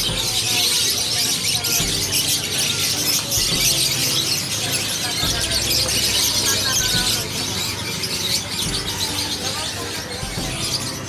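Dense chorus of many caged songbirds chirping and squeaking together, with people talking underneath.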